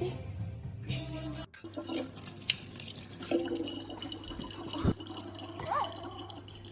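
Water from a tap running and dripping into a sink, with scattered small drips and splashes.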